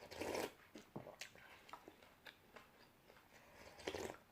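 A person eating noodle soup with crisp raw vegetables close to the microphone: soft crunchy chewing clicks, with a short noisy burst at the start and another near the end.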